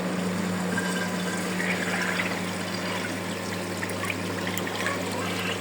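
Electric water pump of a homemade Fastwasher running with a steady hum while water splashes and trickles through it.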